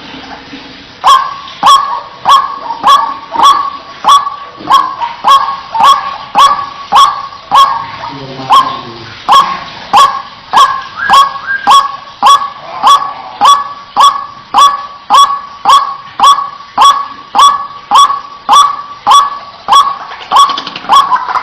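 White-breasted waterhen calling: one harsh note repeated monotonously, about one and a half a second, starting about a second in. It is the bird's repeated 'ruak-ruak' call, used as a lure call.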